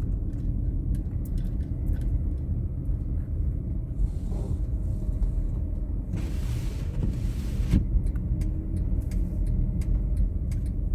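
Low, steady rumble of a car driving on a snowy road, with scattered small ticks. A rushing hiss swells and fades about six to eight seconds in.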